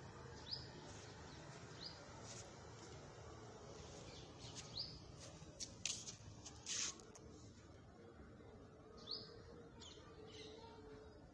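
Faint birds chirping: short, high, rising chirps a second or more apart, with a few brief soft clicks about six seconds in.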